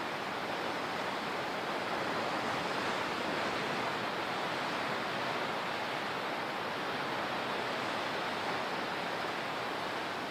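Ocean surf washing steadily on the shore, a continuous rushing noise that swells slightly a couple of seconds in.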